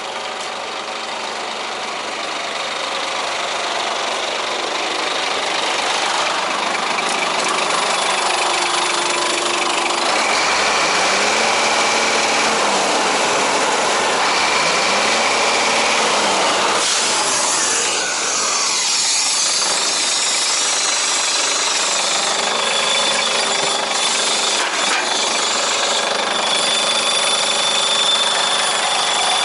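Scania 124 420 truck's straight-six diesel engine running, revved up and back down twice about a third of the way in. A thin high steady tone comes in during the last third.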